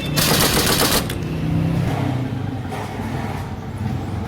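An impact wrench hammering for about a second as it tightens the nut on the clutch of a Honda CD 70, then stopping, leaving a quieter steady low mechanical hum.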